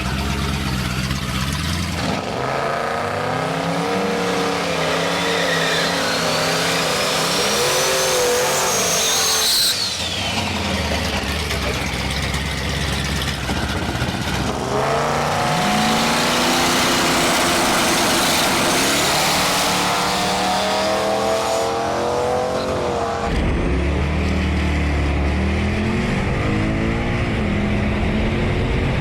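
Twin-turbo Dart 427 V8 in a Pontiac G8 drag car, rumbling at idle and revving up and back down in several runs, with a high turbo whistle that climbs over several seconds and then drops.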